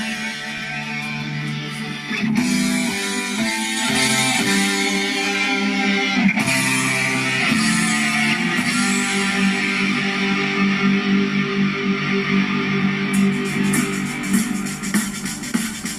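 A guitar-led song playing from a phone over Bluetooth through a cheap Bluetooth receiver-amplifier board and a pair of round car speakers, loud and steady, with chords changing every second or two and cymbals coming in near the end.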